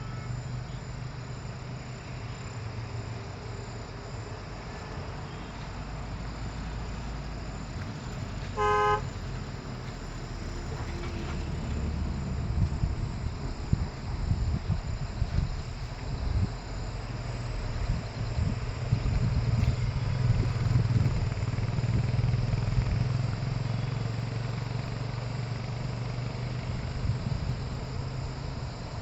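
A vehicle's engine running steadily, getting louder through the middle. About nine seconds in there is one short horn toot.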